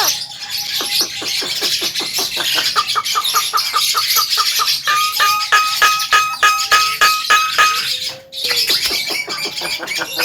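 Javan myna singing: a fast run of clicking, chattering notes with short repeated whistled tones laid over it, and a brief lower whistle about eight seconds in.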